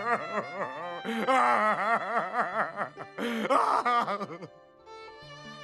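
A man wailing and sobbing in quick, rising-and-falling bursts over soft violin music; the crying stops about four and a half seconds in and the music carries on alone.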